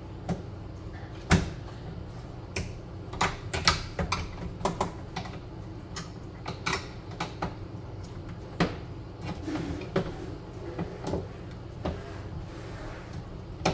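Irregular clicks and knocks of hand tools against a microwave handle as its screws are worked loose, with a second tool holding the back of a screw that spins. The loudest knock comes about a second in.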